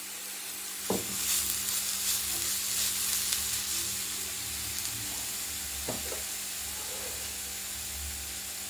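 Grated beetroot sizzling steadily in a little oil in a non-stick frying pan, stirred with a wooden spatula. The beetroot is cooking in its own moisture with no water added.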